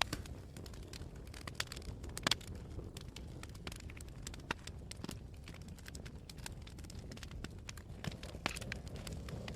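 Wood fire burning, with frequent irregular sharp crackles and pops over a low steady rumble. A pair of louder pops comes a little over two seconds in.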